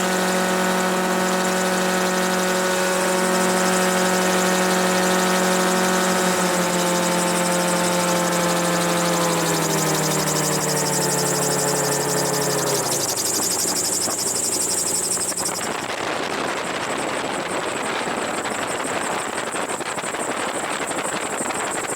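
Gyrocopter engine running steadily, then throttled back: its pitch falls from about nine seconds in and the tone fades out near the middle as the power is cut for a simulated engine failure. After that, only a steady rush of wind and rotor noise is left in the open cockpit.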